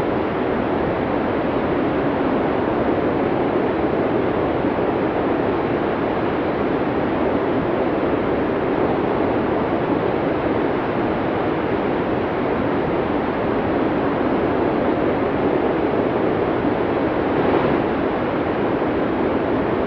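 Snowstorm wind blowing hard, a steady rushing noise that swells briefly near the end.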